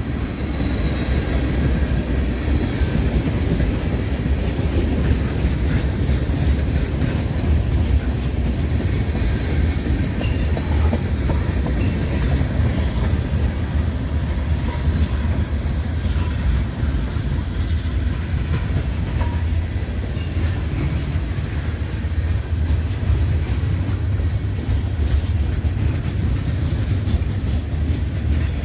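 Freight train's cars rolling past: a steady, loud low rumble of steel wheels on rail, with faint scattered clicks and squeaks above it.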